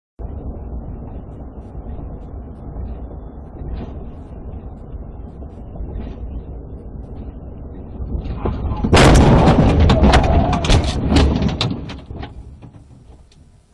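Steady low rumble of a car running, then a loud crash about nine seconds in as a car collides with the police car. Crunching and clattering follow for a few seconds before it dies away.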